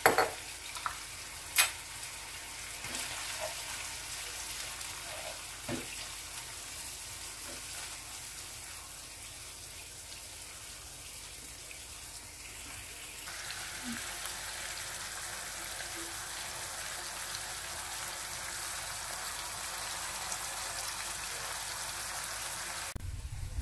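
Shrimp, mushrooms and cherry tomatoes sizzling in olive oil in a frying pan, a steady hiss with a couple of sharp knocks in the first two seconds. The sizzle grows louder about halfway through, and a low rumble comes in near the end.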